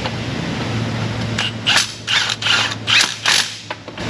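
Hand ratchet on a socket and long extension, worked in quick strokes: about six short bursts of ratchet clicking over two seconds, running in transmission bracket bolts.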